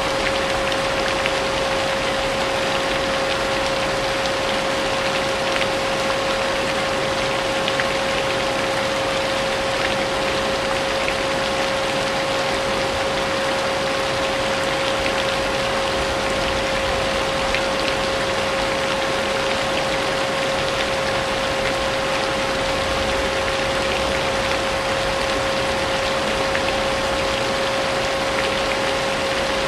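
Vacuum cleaner running steadily with a constant motor hum, mixed with a steady hiss of falling rain.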